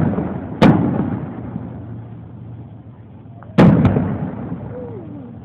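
Aerial firework shells bursting: two loud booms about three seconds apart, each trailing off in a long echo.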